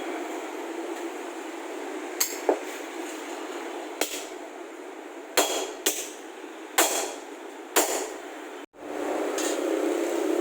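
Irregular sharp metal knocks, about eight of them, from tools striking exhaust pipe parts during fitting, over a steady shop hiss.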